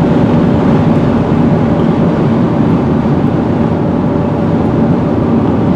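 Steady, loud noise inside a car's cabin as it drives at highway speed, made of road, engine and wind noise with a faint steady hum.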